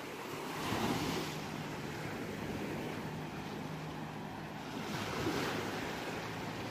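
Ocean waves washing onto a shore, with two swells of surf, about a second in and again about five seconds in.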